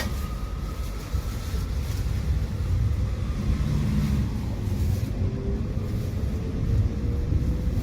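Tram running with a low rumble that grows louder over the first seconds, and a faint whine that slowly rises in pitch as it picks up speed.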